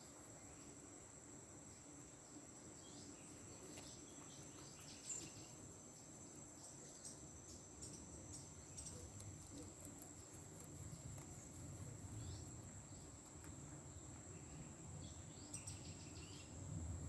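Faint, steady high-pitched trill of crickets, with a few short bird chirps about four seconds in and again near the end, and scattered faint clicks.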